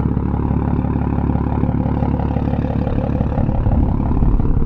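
Infiniti G35 coupe's VQ35DE V6 idling through a Tomei single-exit exhaust with test pipes, a steady low rumble that grows a little louder in the last second or so.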